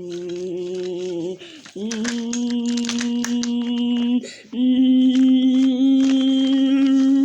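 A voice humming long held notes, three of them separated by short breaks, with the pitch dipping at the end of the first.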